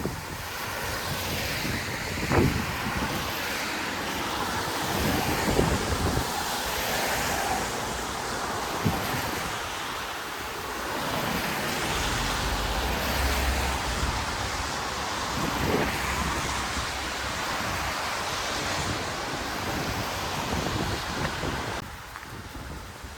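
Street ambience: passing traffic hissing on wet pavement in slow swells, with wind on the microphone and a few sharp knocks. A low rumble comes in for a couple of seconds midway, and the noise drops off sharply about a second before the end.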